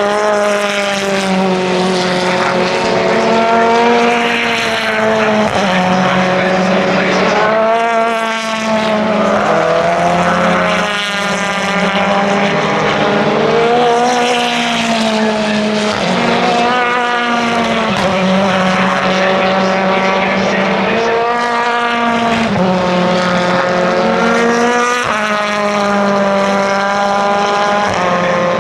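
Race car engines revving hard as cars run past, the pitch climbing and dropping sharply again and again as they change gear. A steady low drone runs underneath.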